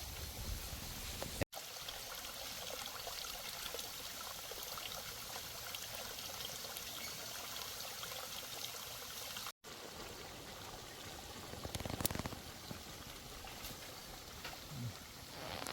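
Steady trickling, running water, broken twice by brief complete drop-outs.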